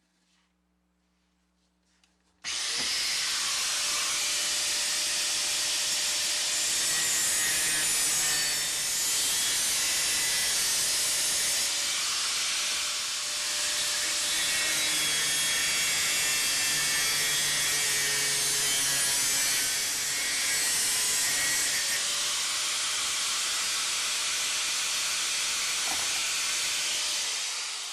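A power tool running under load with a steady, hissing abrasive sound. It starts abruptly about two and a half seconds in and winds down near the end.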